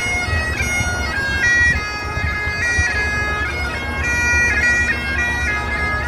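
Great Highland bagpipe played by a street piper: a melody of held notes stepping up and down over the steady drones.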